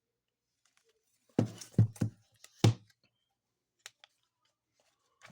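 Handling noise from a picture book: a quick cluster of four or five sharp thumps and rustles about a second and a half in, then a faint tick near four seconds.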